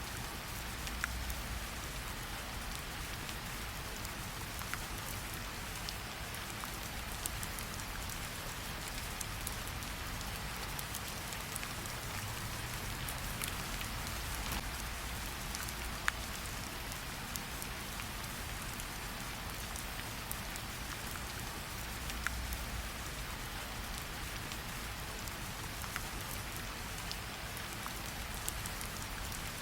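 Steady rain falling, mixed with a crackling campfire that gives a few sharp pops.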